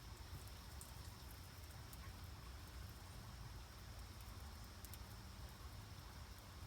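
Faint, quiet ambience with a steady low rumble and a few scattered tiny crackles: fire starters burning in a timed burn test.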